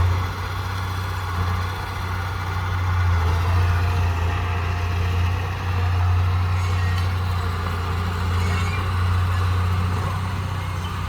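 Heavy diesel engine of earthmoving machinery running steadily with a deep low drone that swells and eases slightly.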